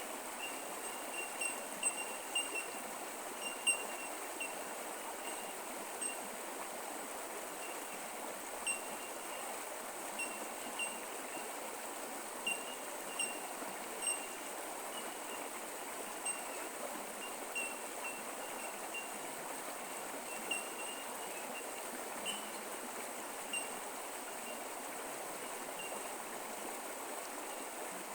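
Creek water running steadily over rocks, with short high-pitched chirps scattered irregularly throughout.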